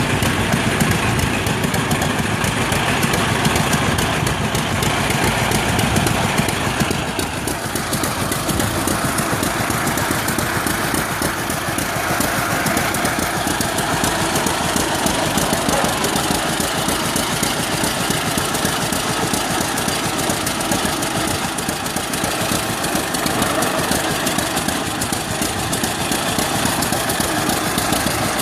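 1938 John Deere G tractor's two-cylinder engine running steadily, its sound changing about seven seconds in.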